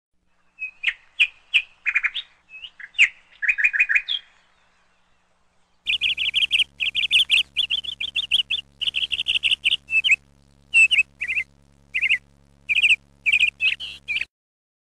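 Small birds chirping and tweeting in quick, high-pitched trills, in two stretches with a short pause between them. A faint steady hum lies under the second stretch, and the chirping cuts off abruptly shortly before the end.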